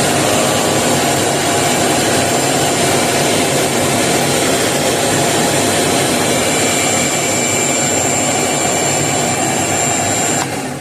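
Craftsman CMXEVBE17595 16-gallon, 6.5 peak HP wet/dry shop vac running steadily with a loud rushing airflow and a high motor whine. It is switched off right at the end, and the sound drops away as the motor starts to wind down.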